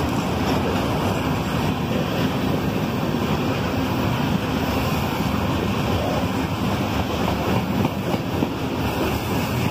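CSX freight train of covered hopper cars rolling past close by: steady, even noise of steel wheels running on the rails.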